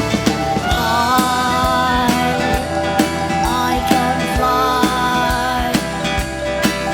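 Live band music: a rock band playing with drums and guitar, and a wavering melody line coming in about a second in.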